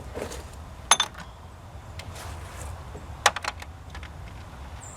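Sharp clicks and taps of hands handling parts in a car's engine bay: one loud click about a second in and a quick cluster of clicks a little past three seconds, over a low steady hum.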